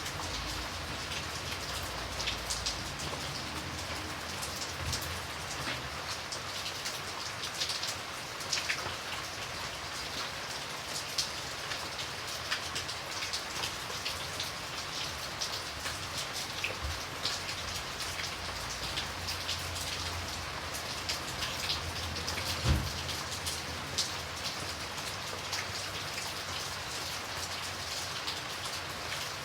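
Steady rain falling, with many individual drops ticking sharply against the constant hiss. A single low thump stands out about three-quarters of the way through.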